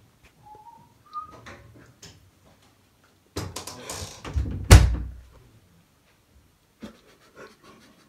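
Two short faint squeaks early, then a couple of seconds of rustling and scraping that ends in one loud, heavy thump past the middle, with a few faint clicks afterwards.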